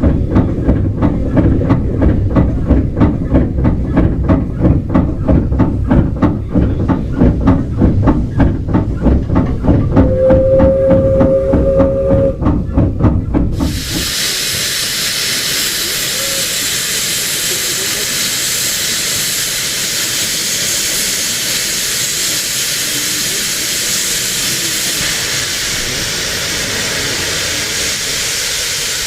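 Steam train on the move, with a fast, even rhythm of beats over a low rumble. A short steady whistle sounds about ten seconds in. A few seconds later the sound switches abruptly to a loud, steady hiss of steam.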